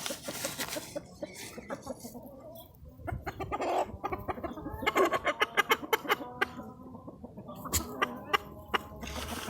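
Chickens clucking while feeding, with many short pecking taps and clicks throughout; the clucking is busiest and loudest around the middle.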